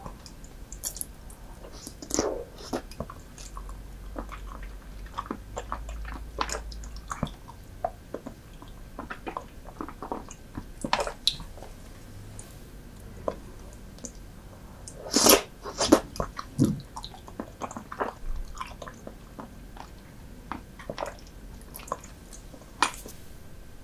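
Close-miked chewing and biting of soy-sauce-marinated raw seafood: wet mouth smacks and irregular sharp clicks, with a louder cluster a little past the middle.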